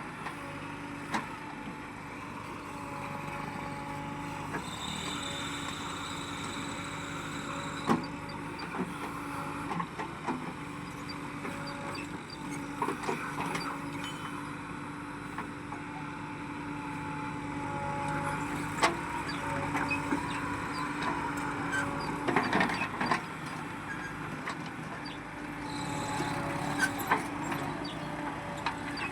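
Engine of a JCB or tractor running steadily, with scattered sharp knocks and clanks.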